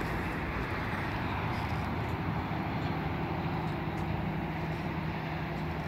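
A steady low mechanical hum with an even low drone, over a constant rushing noise.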